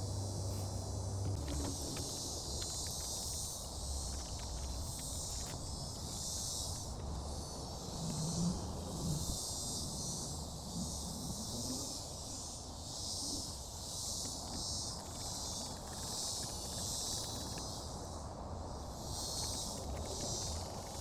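Insects chirping in a steady high-pitched chorus that pulses in and out.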